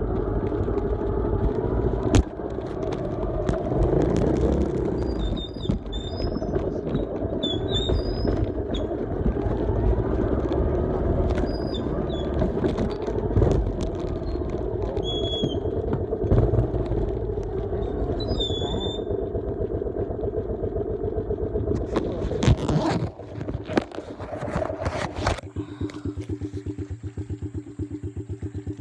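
Dirt bike engine running while riding, with a heavy low rumble; about 25 seconds in it settles into a steady, evenly pulsing idle.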